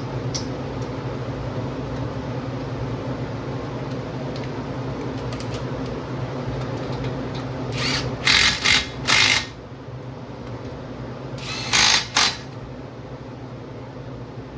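A power tool run in short bursts: three quick bursts, then a pause, then two more. A steady low hum runs underneath.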